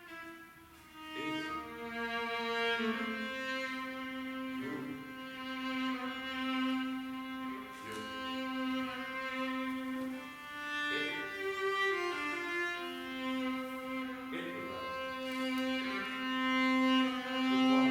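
Bowed string instruments playing long, sustained notes in a slow, free improvisation. The lowest held tone shifts pitch a few times, with higher notes sounding over it.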